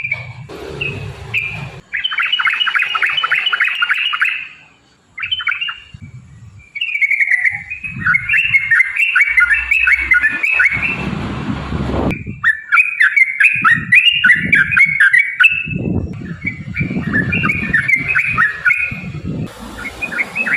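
Yellow-vented bulbul (trucukan) singing its long, rapid 'ropel' song: runs of quick chattering notes in several long bursts with short breaks between them. A low rumbling noise sits under the song now and then.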